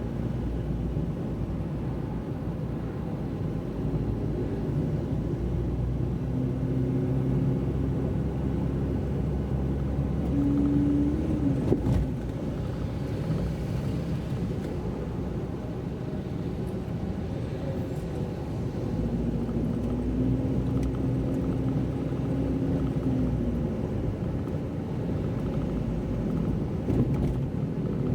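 Car driving on the road: steady engine and road rumble, with the engine note shifting in pitch a few times as the speed changes. There is a sharp click about twelve seconds in.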